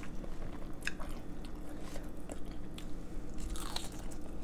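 A person chewing food, with many short crisp clicks of chewing and a crisp bite into a sprig of fresh raw herb leaves near the end.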